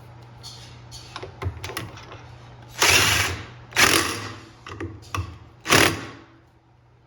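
Screws being driven into a washing machine's drum spider: light mechanical clicks, then three short, loud bursts of tool noise, each fading quickly.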